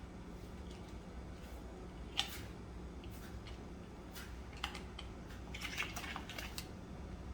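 Light taps and small water splashes from a parakeet bathing in a shallow dish of water. There is a sharp tap about two seconds in and a quick run of small splashes and taps near the end.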